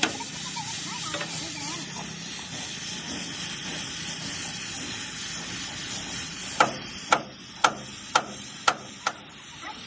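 Steady hissing workshop noise. Near the end come six sharp knocks, about two a second, like hammer blows on a truck frame.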